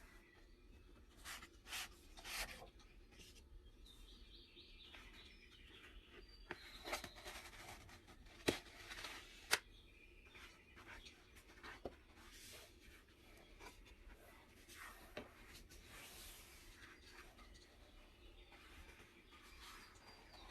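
Faint rustling and rubbing of paper and packaging being handled, with scattered short clicks, two sharper ones about eight and a half and nine and a half seconds in.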